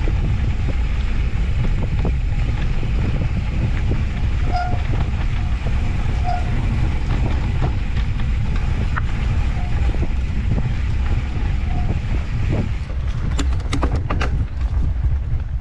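Off-road handcycle rolling along a dirt mountain-bike trail: a steady low rumble of wind buffeting the microphone and the tyres on the ground, with a few sharp clicks and rattles near the end.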